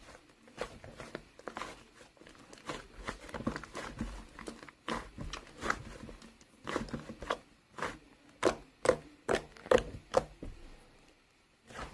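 A run of irregular sharp clicks and taps, close and in a small room, some much louder than others, stopping a little before the end.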